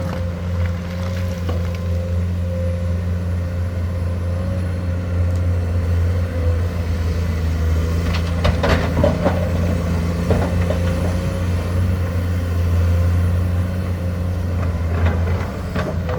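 Komatsu excavator's diesel engine running steadily, with a constant whine over the low drone. A few sharp clanks and knocks come about halfway through and again near the end.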